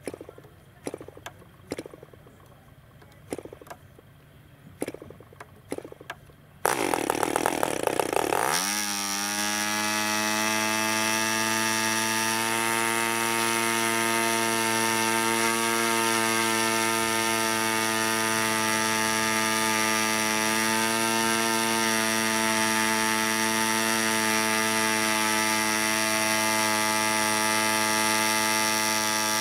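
PAW 15 BR 2.49cc model diesel engine: a few sharp clicks as the propeller is flicked over, then the engine catches about seven seconds in, runs loud and rough for a second or two, and climbs quickly to a steady high-pitched run. It is turning a Zinger 10x6 propeller, slightly over-propped.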